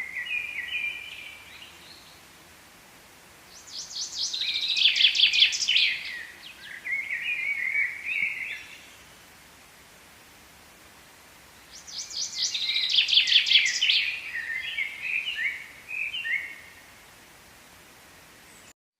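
A songbird singing the same song over and over, twice in full: each song is a fast, dense trill followed by a run of lower, stepped chirping notes, with a few seconds of faint outdoor background between songs. The sound cuts out just before the end.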